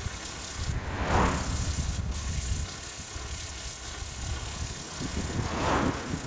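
Pressure washer jet spraying water onto a moss-covered roof: a steady rushing hiss over a low rumble, swelling as the spray sweeps across about a second in and again near the end.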